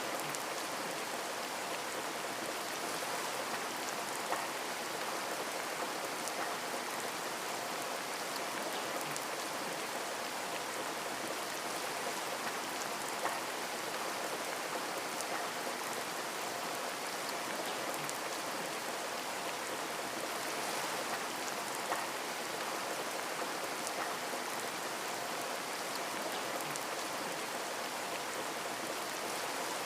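Steady rain pattering on a window, a continuous even hiss with a few louder drop taps scattered through it.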